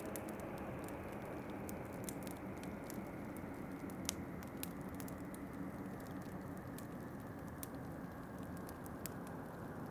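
Wood fire crackling with scattered sharp pops, one louder pop about four seconds in, over a steady low rush of wind.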